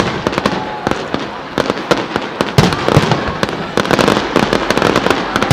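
Fireworks display: a dense, unbroken run of bangs and crackling from bursting shells.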